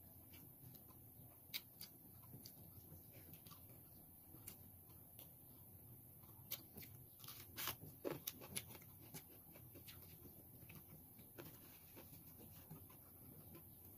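Faint eating sounds: quiet chewing and small scattered clicks as a vegetable salad is eaten with the fingers, with a louder cluster of clicks about eight seconds in.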